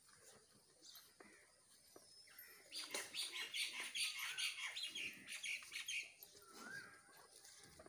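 Birds chirping: a dense burst of rapid high chirps and chatter from about three seconds in to about six seconds, then a single short rising-and-falling call near the end.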